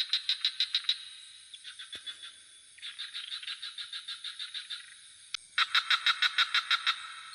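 Frogs calling at night in overlapping bouts of fast pulsed croaks, about eight pulses a second; the loudest bout starts about five and a half seconds in. A steady high hiss runs underneath.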